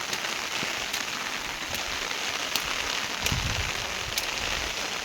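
Steady heavy rain falling, with scattered ticks of drops striking close by. A low rumble joins in for the last couple of seconds.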